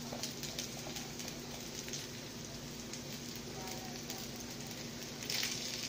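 Scrambled egg and red onion sizzling and crackling softly in a frying pan over medium heat as day-old rice is tipped in, with scattered small ticks. The sizzle grows louder about five seconds in.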